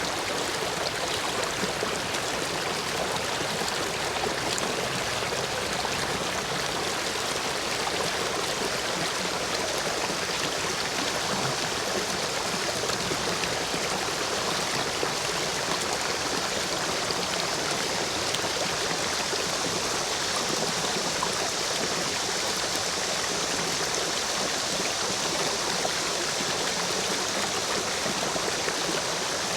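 Stream water rushing and splashing through the gaps between stepping stones, full with rain runoff: a steady, even rush.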